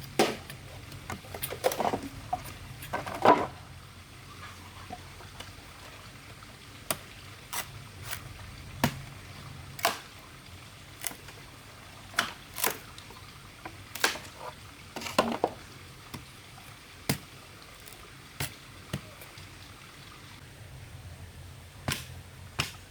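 A series of short, sharp knocks and taps at irregular intervals, about one a second, with a cluster of quicker taps near the start, over a faint steady hum.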